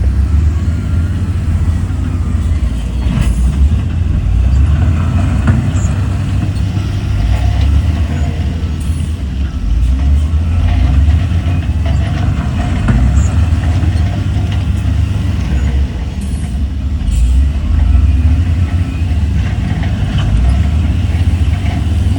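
Heavy diesel earthmoving machinery running under load, a loud steady low rumble, with a few short sharp clanks or hisses along the way.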